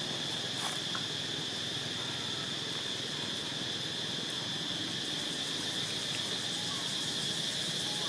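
Steady insect chorus: a continuous high-pitched drone that holds without a break.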